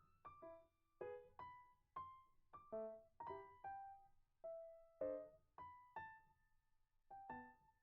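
Faint background music: a keyboard playing a simple melody of separate, gently decaying notes, about two a second.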